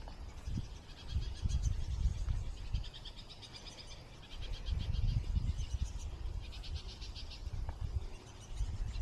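Birds chattering in repeated bouts of rapid, dry, high trills, over an uneven low rumble on the microphone.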